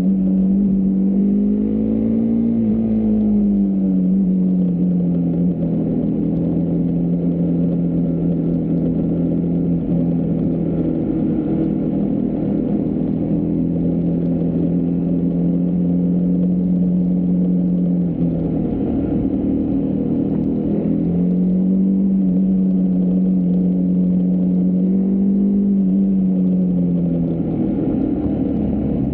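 Husqvarna Svartpilen 401's single-cylinder engine running at a steady cruise, its note rising and falling gently a few times as the throttle is opened and closed.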